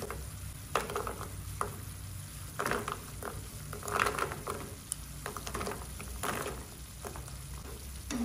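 Crispy fried pork-fat cracklings tipped into a pan of bubbling fish-sauce and sugar glaze, sizzling, with a run of irregular crackly rustles and knocks as the pieces land, loudest about four seconds in. Near the end they are tossed with cooking chopsticks against the pan.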